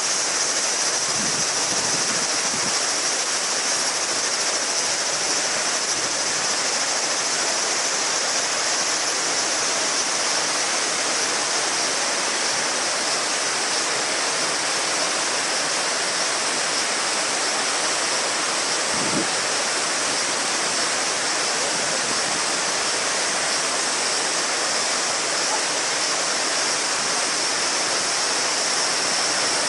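A shallow river murmuring steadily over stones, with a continuous high drone of a cicada chorus above it.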